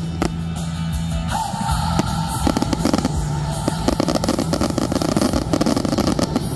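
Fireworks bursting and crackling in quick succession over a music soundtrack.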